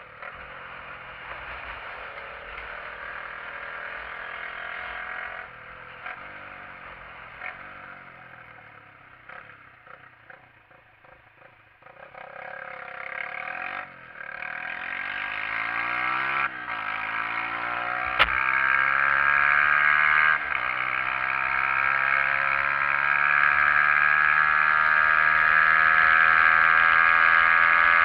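SYM XS125-K's 125 cc single-cylinder four-stroke engine, heard from the rider's position. It drops low and quiet as the bike slows. About halfway through it revs up through the gears, each rise in pitch broken off by a shift. Near the end it settles into a steady, loud cruise.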